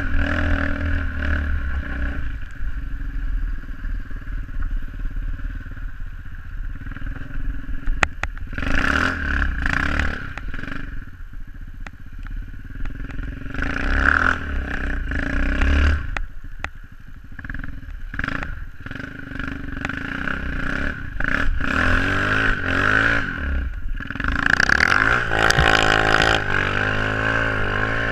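SSR 125cc pit bike's single-cylinder four-stroke engine running under throttle, the revs rising and falling as it is ridden. It eases off about two-thirds of the way through, then revs back up with a wavering pitch near the end.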